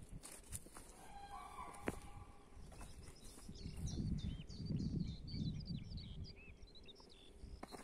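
Footsteps at first, then a songbird singing a fast run of varied chirping notes from about three and a half seconds in, over a low rumble.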